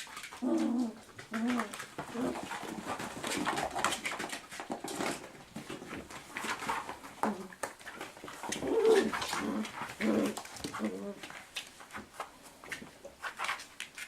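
Airedale terrier puppies giving many short calls in quick succession.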